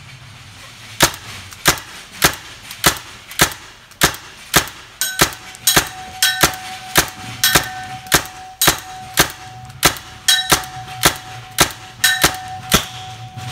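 Tacamo Blizzard Cyborg paintball marker firing single shots at a steady pace, about two a second, from about a second in, a full magazine's worth. A thin steady ringing tone sounds under the shots from about five seconds in.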